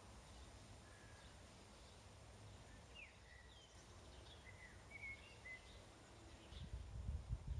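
Faint birdsong: a few short chirps and brief falling calls over quiet outdoor background noise. A louder low rumble rises near the end.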